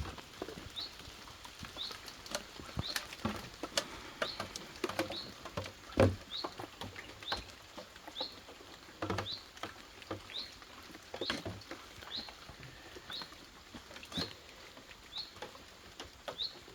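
Rain dripping, an irregular run of drips and plops with one louder splash about six seconds in. A short high chirp repeats about once a second over it.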